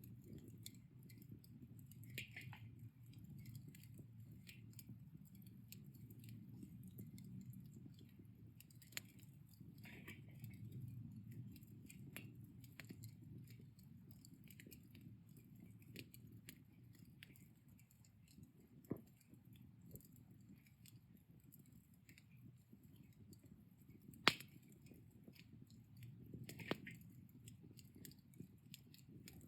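Wood fire burned down to embers, with a faint low rushing and scattered small crackles and pops, one sharper pop late on.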